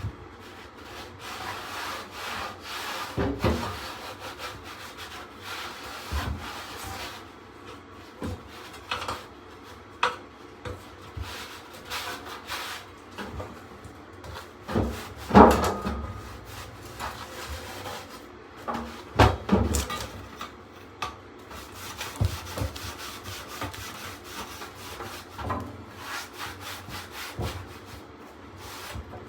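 Irregular scrubbing and wiping as dirt and debris are cleaned out of a furnace blower housing, broken by a few knocks against the metal.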